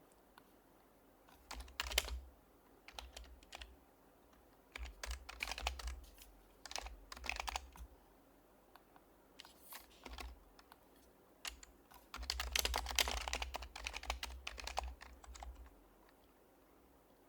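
Typing on an HHKB Professional HYBRID Type-S keyboard, whose Topre switches are a silenced type. Keystrokes come in several bursts with pauses between, the longest and densest run near the end, followed by a lull.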